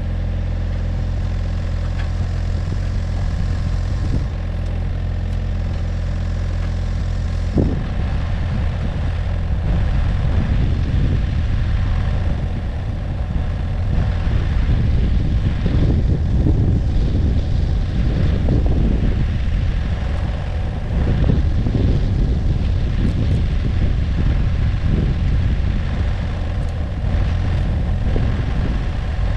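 Komatsu mini excavator's diesel engine running steadily, turning rougher and more uneven from about eight seconds in as it works under changing load, with a single knock about a quarter of the way through.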